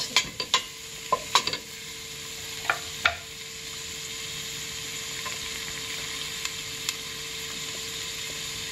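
Sliced lemongrass sizzling in hot oil in a stainless steel pot, with a wooden spatula scraping and knocking against the pot during the first few seconds. After that the pot gives a steady, even sizzle.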